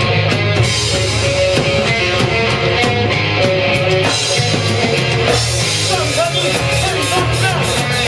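Live rock band playing loud and steady: drums with regular cymbal hits, bass guitar and electric guitar.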